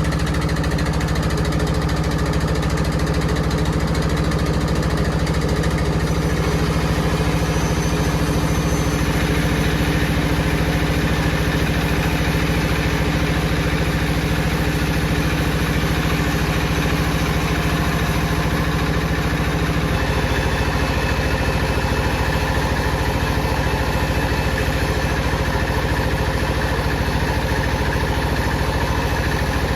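Wood-cutting saw machinery running steadily with a constant hum; about two-thirds of the way through, the low tone changes as the machine's note shifts, and it keeps running.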